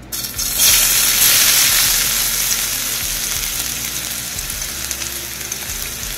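Ginger-garlic paste hitting hot oil in a nonstick frying pan and sizzling. The sizzle starts suddenly about half a second in and slowly eases off.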